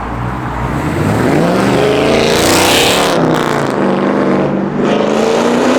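A car engine revving hard as it accelerates, its pitch climbing, with a burst of hiss about halfway through, then holding at high revs. It is loud.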